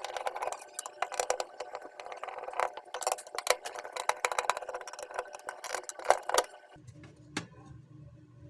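Rapid, irregular rattling and clinking of hard parts being handled, over a steady hiss. It stops suddenly about seven seconds in, leaving a faint low hum and one last click.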